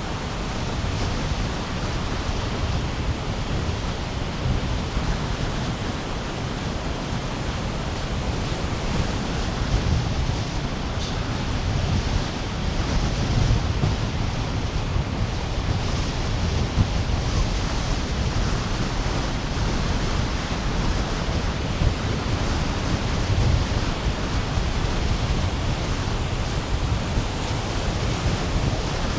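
Sea waves breaking on a sandy beach: a continuous wash of surf that swells and eases a little in loudness, heaviest in its low rumble.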